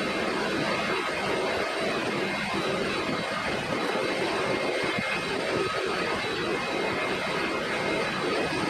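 Jet airliner engines running steadily, a broad rushing noise with a thin high whine over it, with gusts of wind buffeting the microphone.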